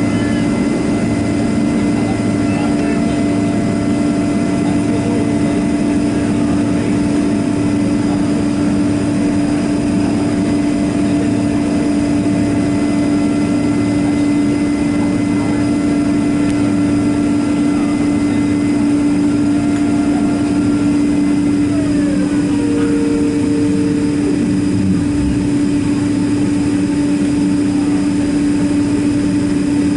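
Boeing 767-300ER jet engines running steadily with a strong hum and several high whining tones; about two-thirds of the way in, the whining tones fall in pitch and fade out.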